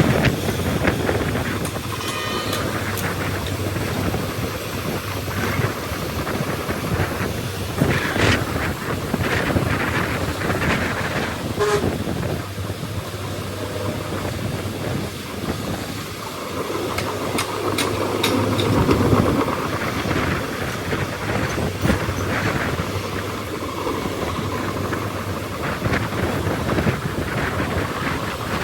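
Bulldozer running under load, a steady diesel drone with scattered metallic clanks and short squeaks from the tracks and blade.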